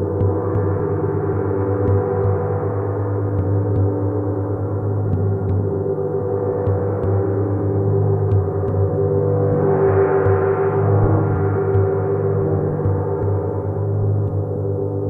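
Gong played continuously, a dense sustained wash of many overlapping ringing tones that swells and brightens about ten seconds in.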